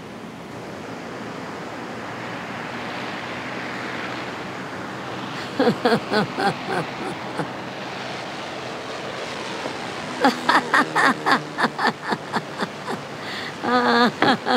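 Surf washing on the beach, then an elderly woman laughing in several bouts of quick, repeated pulses, the last ending in a wavering giggle.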